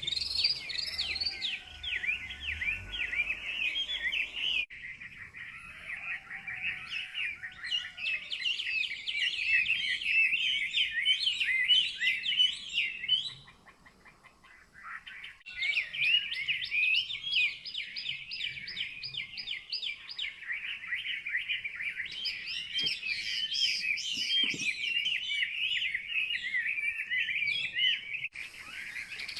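Caged hwamei (Chinese laughingthrush) singing a rapid, varied warbling song, countersinging with other caged birds hung nearby. The song breaks off for about two seconds midway, then resumes.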